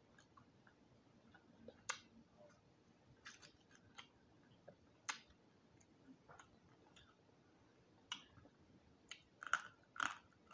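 Close-miked mouth sounds of someone chewing and nibbling roasted quail off the bone: short, scattered smacks and clicks, a few more and louder near the end.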